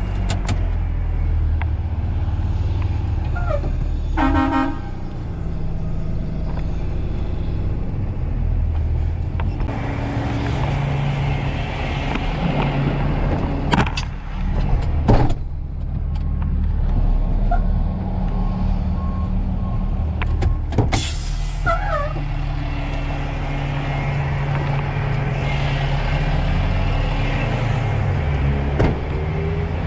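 Motor vehicle engine running with a steady low drone, with a quick run of ticks about four seconds in and a few sharp clicks and knocks around the middle.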